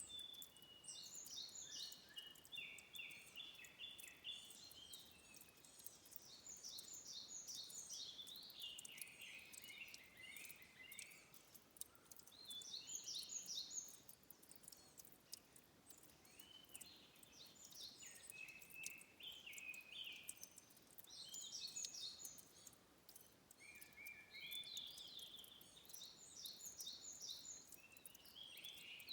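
A songbird singing the same short song about every five to six seconds, six times, each phrase a run of quick high notes that steps down in pitch. Faint, scattered tiny clicks sound underneath.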